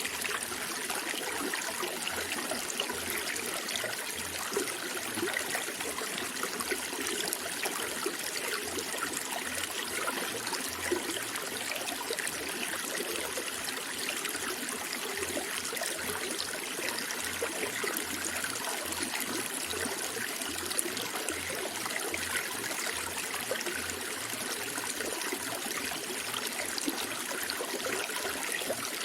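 Running water trickling and babbling steadily, like a small stream flowing over stones.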